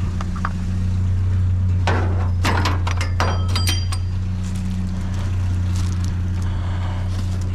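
Small pieces of scrap metal clinking and knocking together as they are handled, with several short bright rings in the middle. A steady low hum runs underneath.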